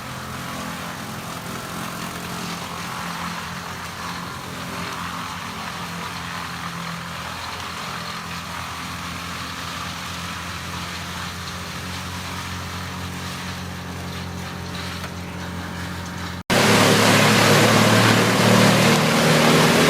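Morbark brush chipper's engine running steadily. About three-quarters of the way through there is an abrupt cut to a much louder, rougher chipper sound.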